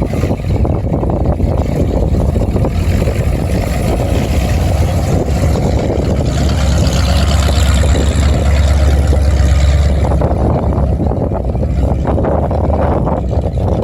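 Silage truck's engine running steadily, a deep low drone that grows a little louder about seven seconds in and eases back after about ten seconds.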